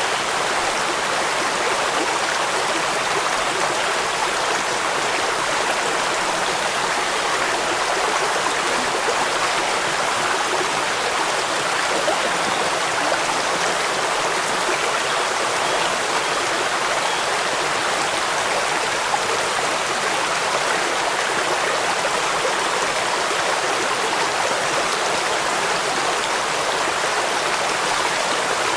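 Steady rushing of a waterfall: an even, unbroken noise with no separate splashes or pauses.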